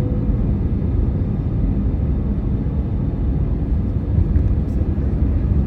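Steady roar of an Airbus A319's jet engines and airflow heard from inside the passenger cabin.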